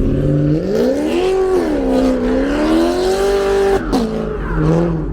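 A car engine revving: its pitch climbs, dips, climbs again and holds, then drops away quickly near the end.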